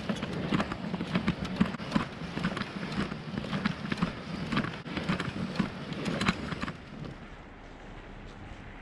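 Footsteps walking at a steady pace, about two to three steps a second, stopping about seven seconds in, after which only faint wind noise remains.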